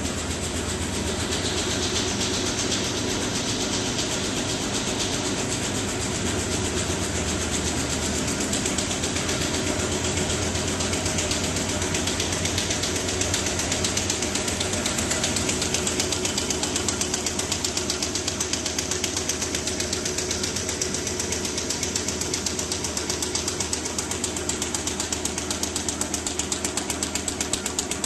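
RZJD-G350J flat-bottom paper bag making machine running at production speed: a fast, even mechanical clatter over a steady hum.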